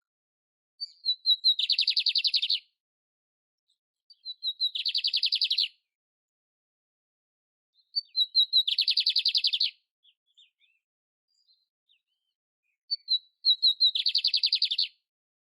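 Canary singing: four short phrases a few seconds apart, each a few separate high notes running straight into a fast, buzzy trill about a second long.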